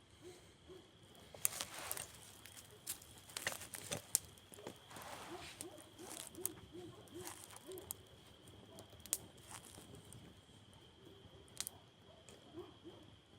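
Wood campfire crackling, with irregular sharp pops and snaps of burning wood. Behind it run a steady high-pitched tone and a faint low call that repeats several times a second in short runs.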